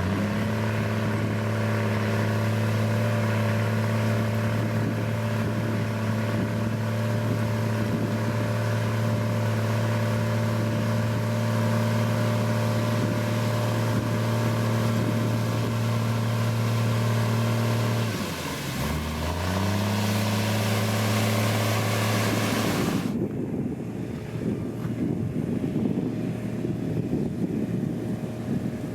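Diesel engine of a heavy road-construction machine running at a steady pitch. Its pitch dips briefly about two-thirds of the way through and comes back up. Near the end the engine tone stops, leaving a low noisy rumble.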